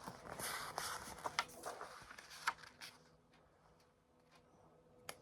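Soft rustling and small taps of a picture book's paper pages being handled for about three seconds, then near silence.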